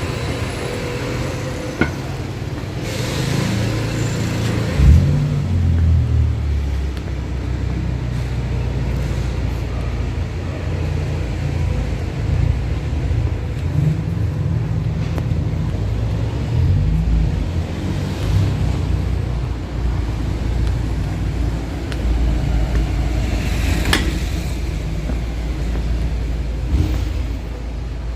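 City street traffic: a steady low rumble of vehicle engines passing and idling, with engine tones that rise and fall. A brief knock comes about five seconds in and a sharp click near the end.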